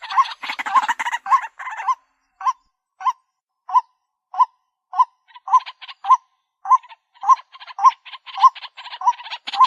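White-breasted waterhen calling: a long series of short repeated notes, about one and a half a second, with a harsh rasping chatter over them in the first two seconds and again from about five seconds on.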